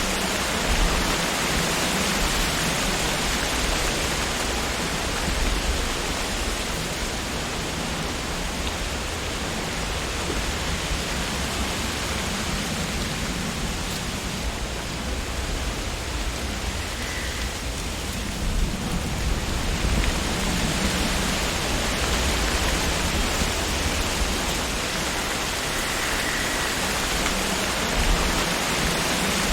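Wind blowing through tree leaves, a steady rushing rustle with a low rumble underneath that eases a little midway and builds again.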